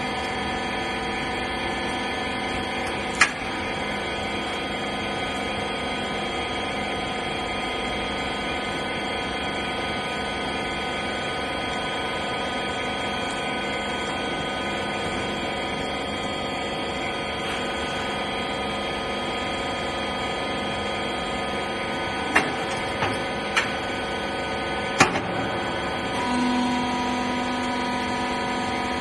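Rag baler machine running with a steady, even hum. A sharp click or knock comes about three seconds in, a few more come near the end, and a new steady tone joins near the end.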